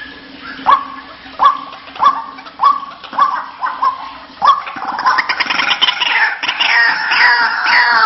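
White-breasted waterhen calling: short, upward-hooked notes about every two-thirds of a second, then about halfway through a louder, faster run of overlapping croaking calls that keeps building.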